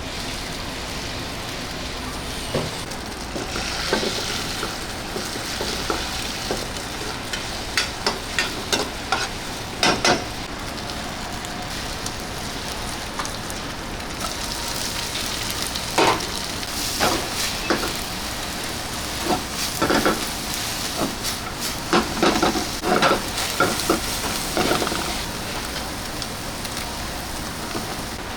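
Food preparation in a pizza kitchen: a steady hiss under scattered clicks and knocks, which bunch together about a third of the way in and again through much of the second half.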